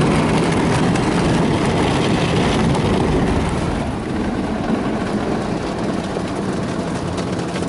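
PDQ ProTouch Tandem automatic car wash on its pass, its water spray and machinery heard from inside the car, over a steady low hum. The noise eases a little about four seconds in.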